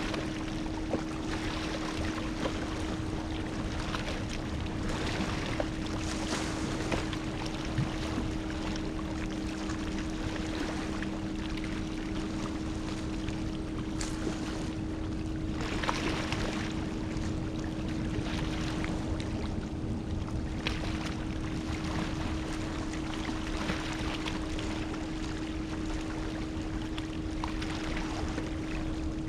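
Gentle ocean waves washing in, swelling in surges every few seconds, over a steady low hum.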